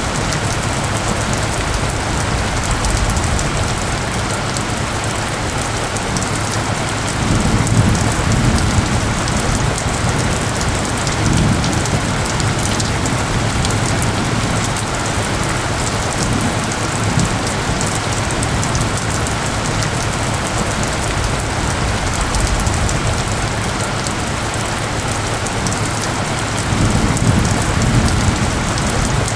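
Steady heavy rain falling on surfaces, a dense even hiss, with low rumbling swells twice: about eight seconds in and near the end.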